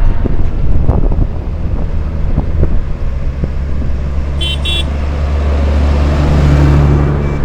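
An engine running close by with a steady low hum, with two short high toots, like a horn, about four and a half seconds in.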